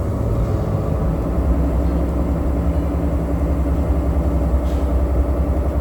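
Truck engine running steadily, heard from inside the cab: an even low rumble with a fast pulsing beat.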